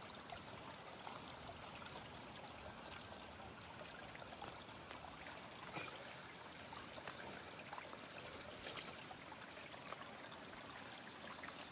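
Faint, steady trickle of running water, a small stream or the irrigation water flowing through a flooded water-taro garden.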